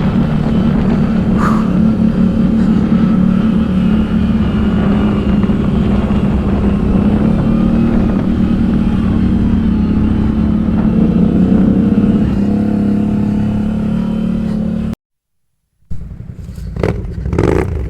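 ATV engine running steadily while riding, with a low rumble underneath. About fifteen seconds in the sound cuts out abruptly for about a second, then resumes with engine sound that swells briefly a couple of times.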